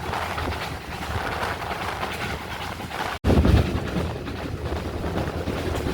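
Steam train hauled by GWR 2-8-0 tank engine 4247 running along the line, a continuous rumble. About three seconds in the sound cuts out for an instant and comes back louder and deeper.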